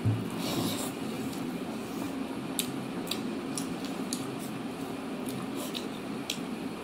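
Eating sounds of rice and chicken eaten by hand: a low thump as a mouthful goes in, then chewing with a string of small sharp mouth clicks, over a steady low hum.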